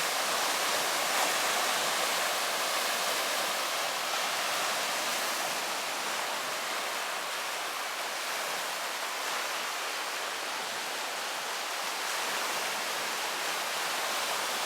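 Steady, even rush of running water, with no distinct splashes or other events.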